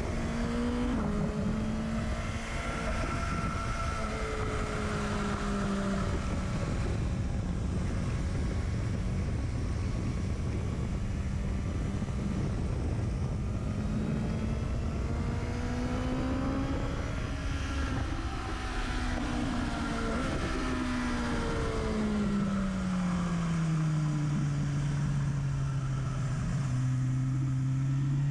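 Motorcycle engine running at track speed, heard close to its exhaust, over heavy wind rush on the microphone. Its pitch holds fairly steady for most of the stretch, sinks as the bike slows for a corner about three-quarters of the way in, then climbs again near the end as it accelerates.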